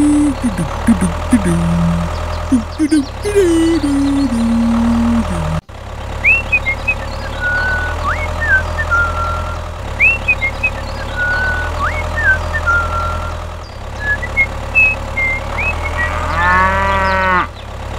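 Steady low engine hum of a tractor under cows mooing, with a longer moo near the end, and short high bird chirps in the middle.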